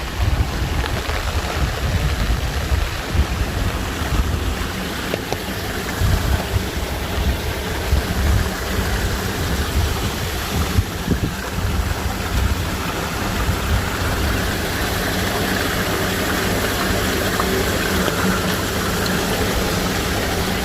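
Steady rush of rain in a hail storm, with wind buffeting the microphone. A low, steady engine hum joins underneath from about halfway.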